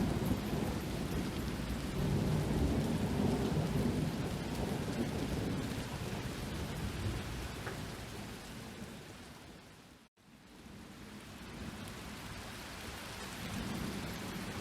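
Steady rain falling, with a low rolling rumble of thunder that swells over the first few seconds and dies away. About ten seconds in, the sound drops out for an instant before the rain comes back.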